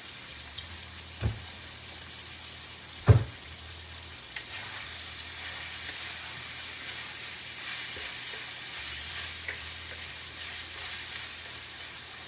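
Garlic frying in oil in a pan, sizzling steadily, with black pepper just added. Two sharp knocks sound about a second and three seconds in, the second one the loudest, followed by a lighter click.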